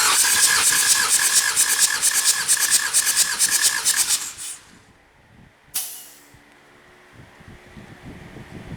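Hyundai D4BF four-cylinder diesel engine cranking on the starter for a compression test: a rapid hissing puff about six times a second over a steady starter whine, stopping after about four seconds. A short sharp hiss of air follows just before six seconds, typical of a compression gauge being bled off.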